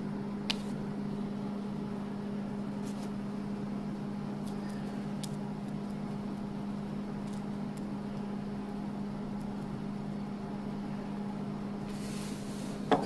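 Small gas engine of a Frontier OS27 band sawmill running at a steady speed with an even hum, before the blade enters the log.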